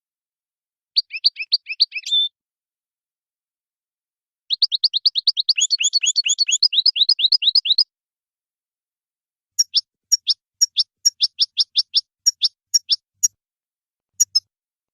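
European goldfinch singing a 'wadani'-style song in three phrases with silences between. First comes a short run of quick notes ending in a brief held note, then a fast trill of about three seconds, then a slower series of sharp notes at about three a second.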